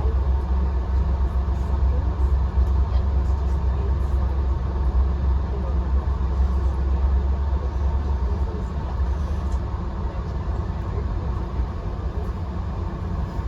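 VIA Rail passenger train running: a steady low rumble of wheels and track heard from inside the coach, easing off slightly near the end.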